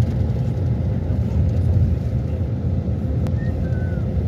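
A steady low rumble, with a single sharp click about three seconds in and a few faint short chirps near the end.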